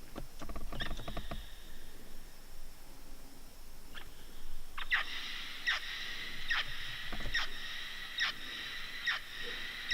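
Mealy parrots calling in flight: a run of short, sharp calls repeated less than a second apart, ringing on after each one as they echo off the sinkhole's rock walls.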